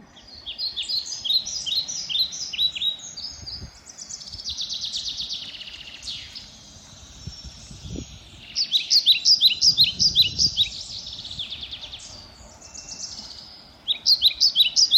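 Songbirds singing: bursts of quick, high, repeated chirps lasting a few seconds each, three times, with a buzzy trill between the first two.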